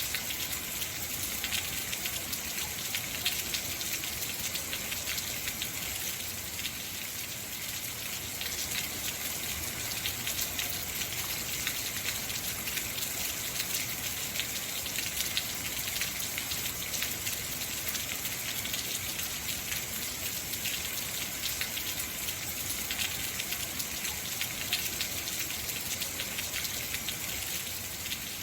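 Heavy rain falling steadily: a dense, even hiss of drops with fine patter, with no letting up.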